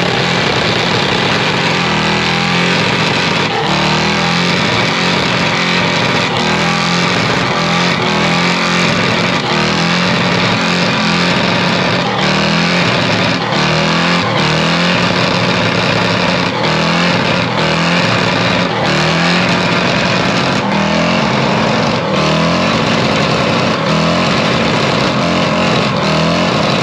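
Pickup truck's engine held at high revs during a burnout, the pitch wavering up and down as the throttle is worked. The spinning tires add a loud, continuous screeching hiss.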